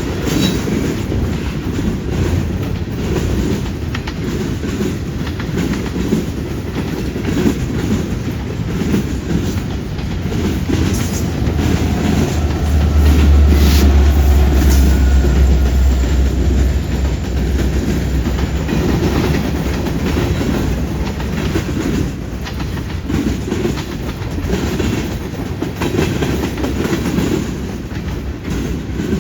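CN freight train's cars rolling past, wheels clickety-clacking over the rail joints and junction switch. About twelve seconds in, a deep diesel drone swells for several seconds and fades: the mid-train distributed-power locomotive going by.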